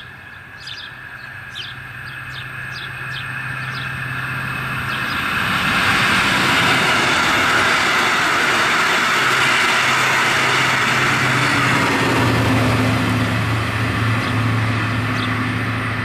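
A regional push-pull train passes at speed. The rush and rumble of coach wheels on the rails builds over the first few seconds and stays loud through the middle. In the last few seconds the Class 223 diesel locomotive at the rear goes by with a steady low engine drone. Birds chirp faintly early on and near the end.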